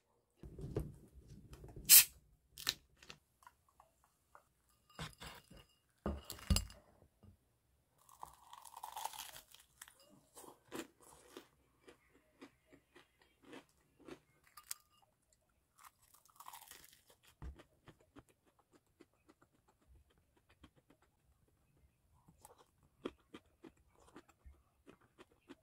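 Crispy fried chicken being bitten and chewed close to the microphone: irregular crunches and crackles, with a few sharp clicks and knocks, the loudest about two seconds in.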